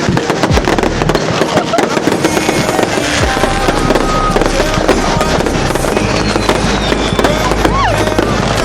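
Fireworks and firecrackers going off in quick succession: a dense run of cracks and pops, with a short whistle near the end.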